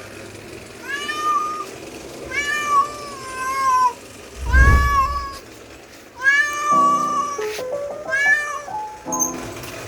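Domestic cat meowing again and again, about five meows, each rising then falling in pitch; a dull thump about halfway through, with music in the background.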